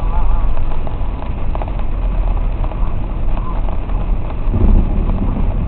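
Car driving in a torrential rainstorm, heard from inside the cabin: a steady low rumble with a wash of rain and wet-road noise.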